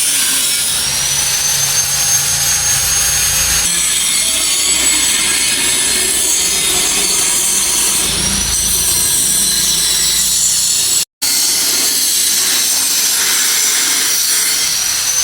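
Power tool grinding or cutting metal: a loud, steady harsh hiss with a high whine that rises in pitch at times. The sound cuts out for a moment about eleven seconds in.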